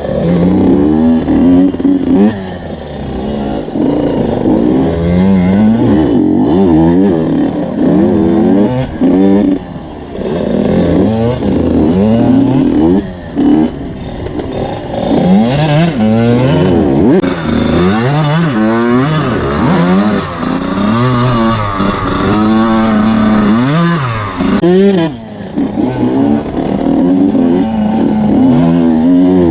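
Small 80–85 cc two-stroke motocross bike engine on a trail ride, revving up and falling back over and over as the throttle is opened and shut, with a rush of high hiss for several seconds around the middle.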